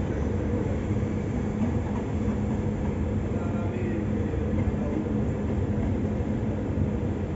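Frecciarossa 1000 high-speed electric train rolling slowly out of the terminus: a steady low rumble with a steady hum over it.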